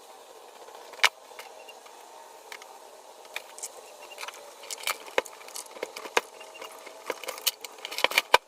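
Irregular clinks and knocks of small metal parts and tools being handled, with one sharp knock about a second in and a busier run of them over the last few seconds.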